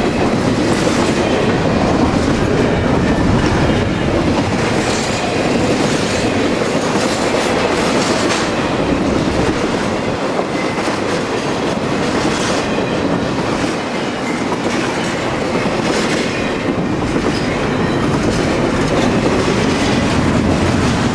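Double-stack intermodal freight train's well cars rolling past at speed: a steady rumble and rattle of steel wheels on the rails, with clickety-clack clicks at the rail joints.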